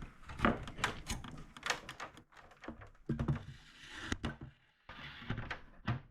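Irregular knocks, clicks and light thuds of air-conditioner parts being handled during reassembly of the indoor unit.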